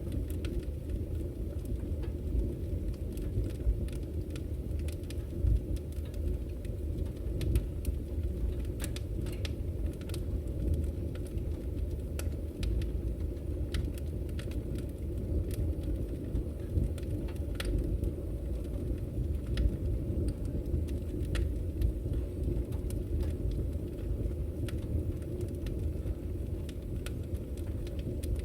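Wood fire burning in a fireplace: firewood crackling with scattered sharp pops at irregular times over a steady low rumble.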